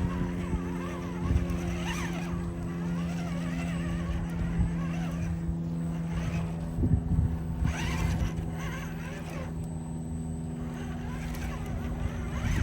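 Scale RC crawler's Hobbywing brushed electric motor and geared drivetrain running steadily as the truck drives over dirt, with a few short knocks along the way.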